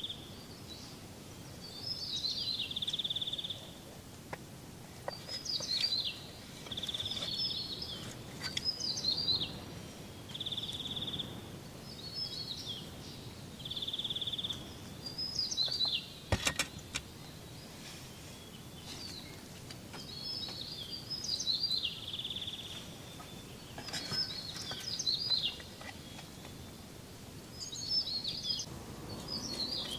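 A bird singing short repeated phrases every few seconds, each either a quick run of high chirps or a brief held whistled note, over a faint steady hiss. One sharp click sounds about halfway through.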